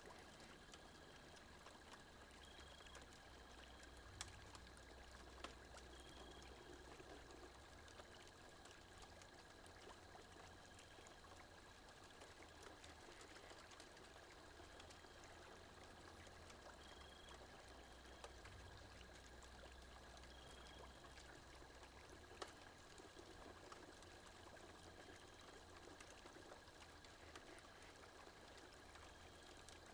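Campfire burning faintly: a steady soft hiss with fine crackling and a few sharper pops, about four in all. A faint short high chirp recurs every few seconds.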